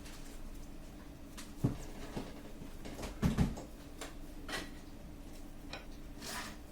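Scattered light clicks and knocks of small plastic printer parts being handled, the loudest a double knock about three seconds in, over a faint steady hum.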